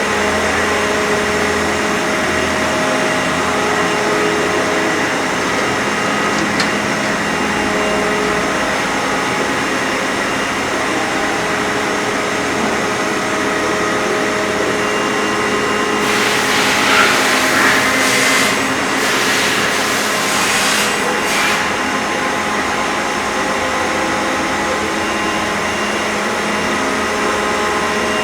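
CNC machine running: a steady whir with several motor tones that come and go and change pitch as it moves, and a louder, hissier stretch from about 16 to 22 seconds in.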